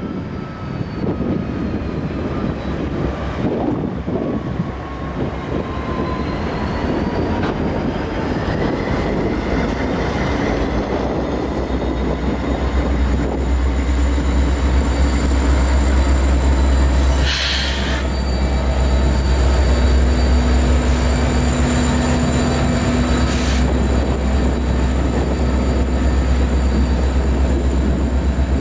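Lead diesel locomotives of a freight train passing close by, a GE Dash 9 and then EMD units including a Canadian National SD75I. The engines run under power with a deep rumble that grows louder through the pass, over steel wheels on rail and a steady high squeal from the wheels, with wind buffeting the microphone. Two short hissing bursts come about two-thirds and four-fifths of the way through.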